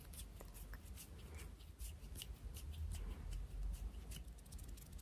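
Close-miked ASMR hand sounds: hands and fingers rubbing and fluttering, making a run of irregular soft crackly ticks and rustles.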